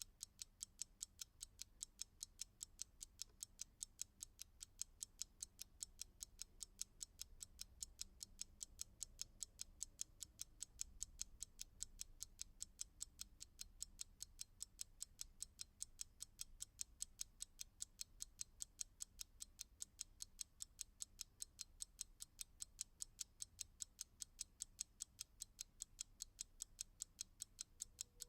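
Clock ticking: sharp, evenly spaced ticks, about three a second, in a steady unbroken rhythm.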